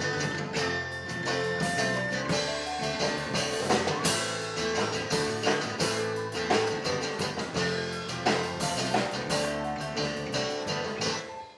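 Art-rock band playing an instrumental passage with drum kit and guitar, which stops abruptly near the end.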